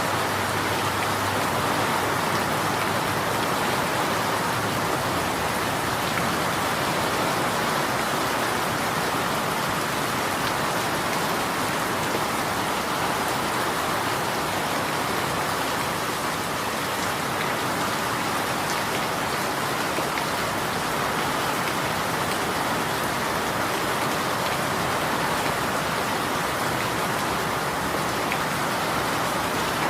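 Steady rain falling, an even continuous hiss with no single drops, thunder or lulls standing out.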